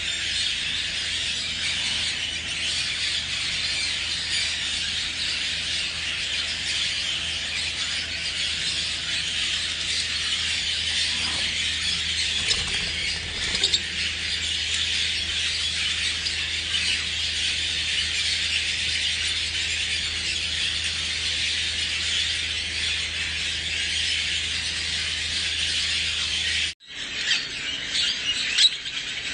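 Many small birds chirping continuously in a dense, overlapping chatter over a faint low hum. Near the end the sound breaks off abruptly, and separate sharp chirps follow.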